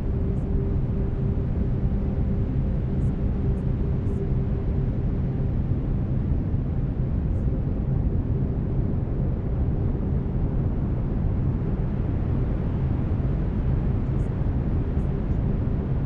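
Brown noise: a steady, deep rushing hiss, heaviest in the low end. Faint steady low tones from binaural beats run underneath it.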